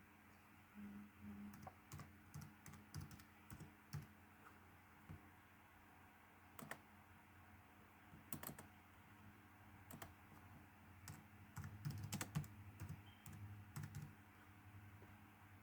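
Computer keyboard typing: scattered single keystrokes with a quicker run of keys about twelve seconds in, over a faint steady low hum.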